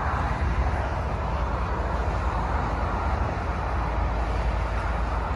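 Covered hopper cars of a freight grain train rolling past at close range: a steady rumble of steel wheels on the rails with a strong low drone, even in level throughout.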